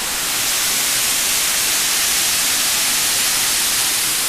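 Waterfall with a heavy flow of water, a steady hissing rush that gets a little louder about half a second in.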